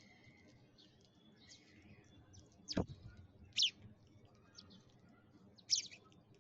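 Sparrows chirping: a scatter of short, high chirps, with two louder ones in the second half. A single sharp click comes a little before the middle.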